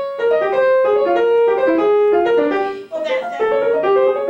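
Piano playing a classical passage of many short, overlapping notes in the middle register, with a brief pause about three seconds in.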